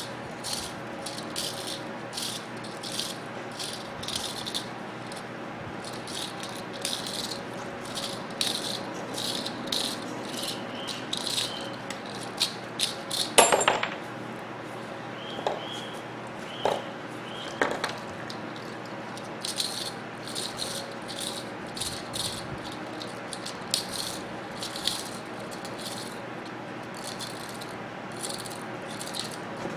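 Winding wire and small metal parts of a microwave cooling-fan motor being pulled apart and handled: irregular scratchy clicks and rattles, with one louder metallic clink about halfway through.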